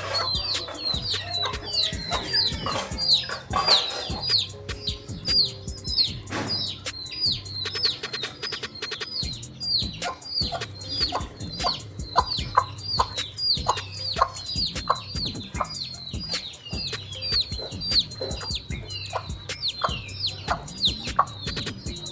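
Aseel chicks peeping without pause, a quick run of short high peeps that each fall in pitch, with a hen's clucks underneath.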